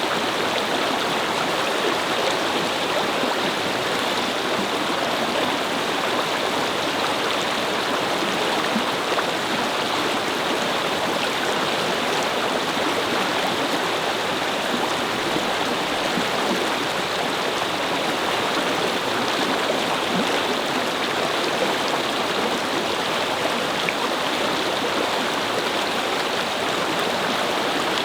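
A small brook babbling, its water flowing and splashing steadily over stones.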